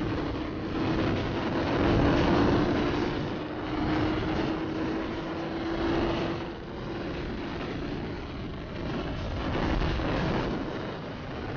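Wind rushing and buffeting over the microphone on a moving motorcycle, with the bike's engine holding a steady note that climbs slightly and then fades about halfway through.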